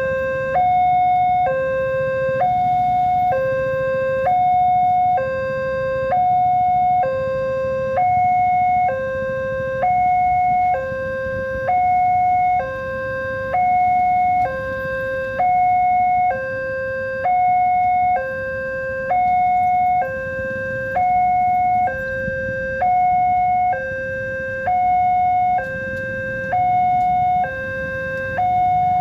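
Railway level-crossing warning alarm sounding a two-tone high-low signal, about one tone a second, repeating steadily while the crossing is closed for an approaching train. A steady low rumble runs underneath.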